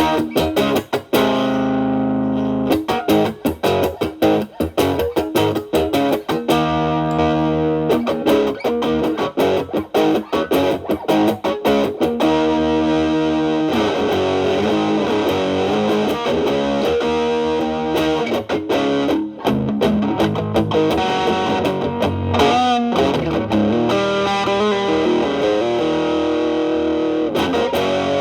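Telecaster played through an MXR Distortion+ (distortion set around 3) stacked with a Boss SD-1 into a Marshall Valvestate's clean channel: distorted electric guitar with picked notes and short chord stabs at first, then longer sustained notes, with a vibrato bend about two-thirds of the way through.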